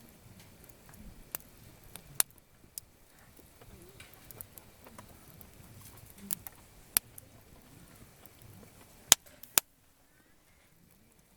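Campfire of gathered firewood crackling, with sparse sharp pops over a faint low murmur; the two loudest pops come close together about nine seconds in. The background then drops almost to silence.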